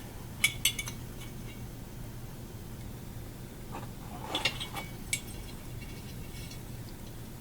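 Small metal carburetor parts clicking and clinking as they are handled and fitted together: a few sharp clicks about half a second in, then another cluster a little past the middle, over a steady low hum.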